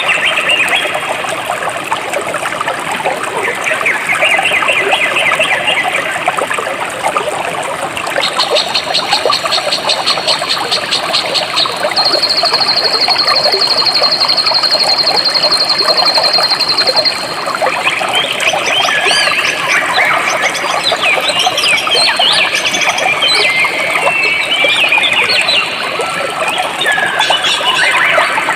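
Jungle stream flowing steadily, with birds chirping over it. A high, fast trill starts about a third of the way in, pulsing at first and then held steady, and stops after about nine seconds; the chirping grows busier near the end.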